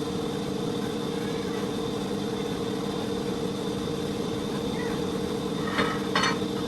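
A steady mechanical hum holding an even pitch, with two sharp clinks close together about six seconds in.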